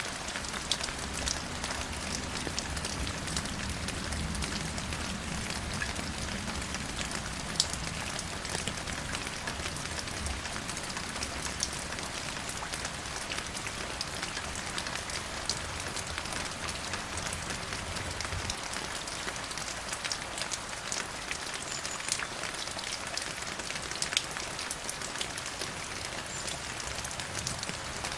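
Steady rain falling: a dense hiss dotted with sharp taps of individual drops striking close by. A low rumble underneath stops about two-thirds of the way through.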